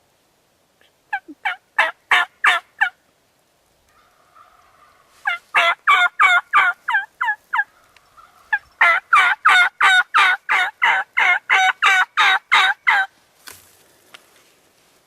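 Turkey yelping: three loud runs of evenly spaced notes, about three to four a second, each note dropping in pitch. A short run comes about a second in, another near five seconds, and the longest, some fourteen notes, from about nine to thirteen seconds.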